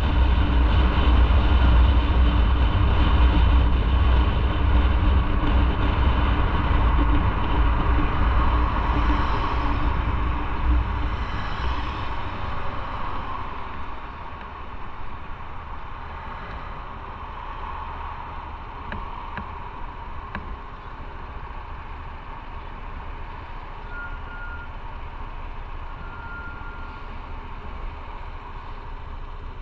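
Motorcycle engine running with wind and road noise while riding. The sound eases off to a quieter, steady idle about halfway through as the bike slows. Two brief high beeps come near the end.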